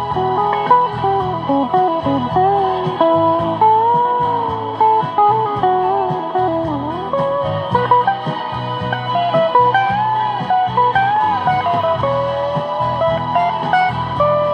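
Guitar music: a sliding, bending lead melody over a steady low accompaniment, playing continuously.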